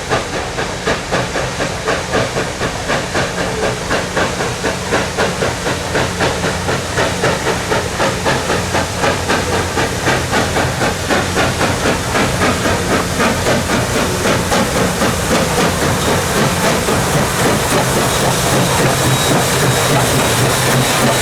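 Chesapeake & Ohio 1309, a 2-6-6-2 Mallet steam locomotive, working hard with a steady beat of exhaust chuffs that quickens and grows louder, over a constant low hum.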